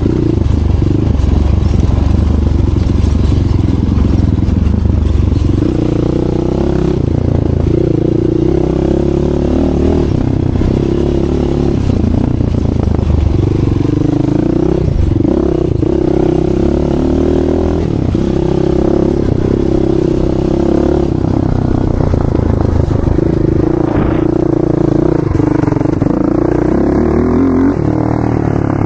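ATV engine running hard and continuously, its pitch rising and falling again and again as it revs up and backs off.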